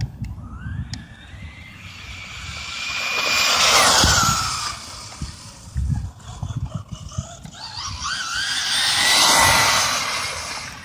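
Electric RC stadium truck on a 3S LiPo driving past twice on the street: a high motor and gear whine that rises in pitch as it speeds up, swelling and fading with each pass. The passes are loudest about four and nine and a half seconds in.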